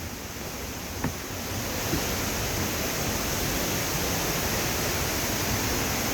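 Rushing water of a waterfall, a steady hiss that grows a little louder about two seconds in, with a couple of faint knocks near the start.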